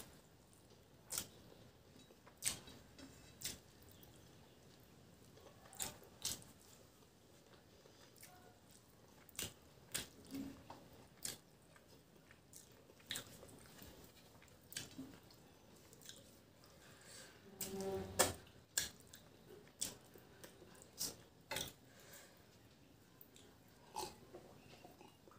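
Close-up eating sounds of a person chewing mouthfuls of rice and fish curry eaten by hand, with short wet smacking clicks at irregular intervals, the loudest a little past halfway.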